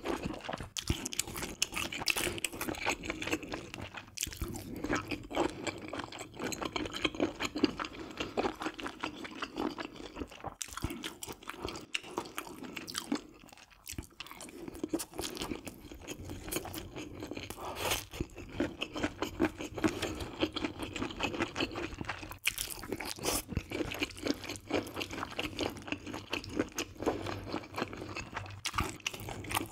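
Close-up chewing and biting of mouthfuls of grilled pork belly, spicy webfoot octopus with beef intestines, rice and thick udon noodles, with crunchy bites and wet mouth sounds, briefly quieter just before the middle.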